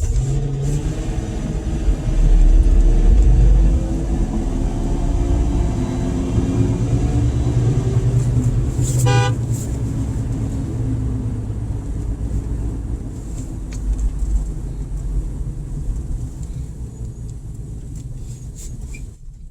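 Car engines running and revving, loudest a couple of seconds in, with a short car horn honk about halfway through.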